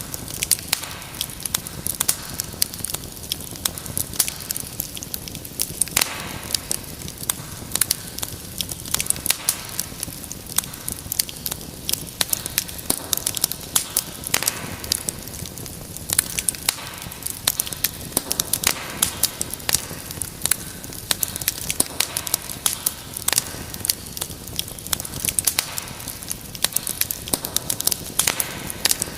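Wood fire in a fireplace burning steadily, with dense, irregular crackles and pops over a soft rumble of flame.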